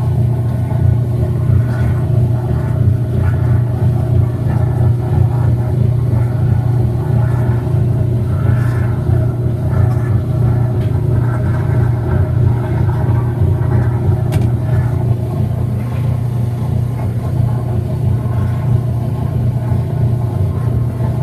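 Whirlpool WTW5300SQ0 top-load washing machine running mid-cycle: a steady, loud low hum and rumble from its motor and drum, with no pause or change.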